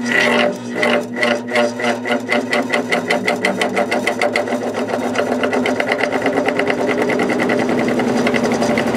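Window fan motor starting on high and spinning up, with a pulsing hum whose beat speeds up as the blade gains speed. The pulsing comes from the motor: a loud cyclic hum that the owner puts down to an imperfect, out-of-round rotor, with the fan vibrating a lot.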